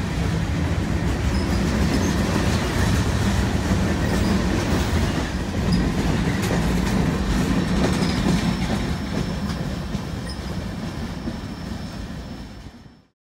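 BNSF manifest freight train rolling past on the mainline: a steady rumble of steel wheels on rail with wheel clatter and a thin, high wheel squeal in the second half. The sound eases off slightly, then cuts off abruptly near the end.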